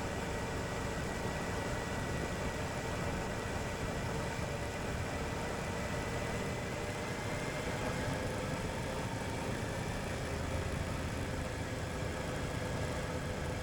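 Suzuki V-Strom 1050XT's V-twin engine running at a steady cruising speed, with a steady rush of wind and road noise.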